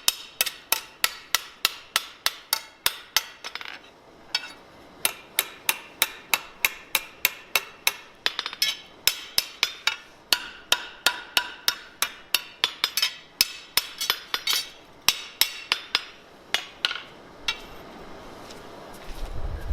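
Hand hammer striking steel on an anvil, about three blows a second, each with a bright metallic ring, in runs with short pauses. The hammering stops a couple of seconds before the end and a low rumble follows.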